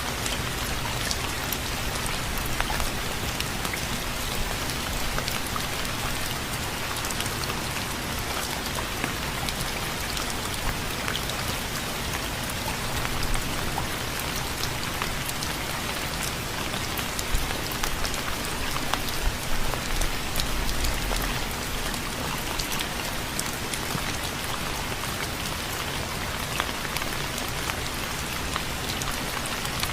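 Steady rain falling on a surface: a continuous hiss dense with individual drop hits, and a brief low rumble about two-thirds of the way through.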